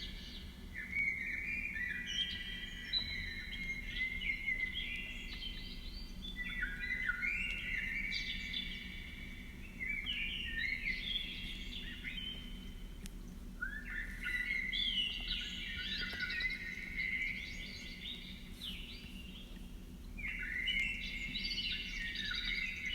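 A songbird singing long, rapid phrases of chirps and trills, with short pauses between them, four phrases in all.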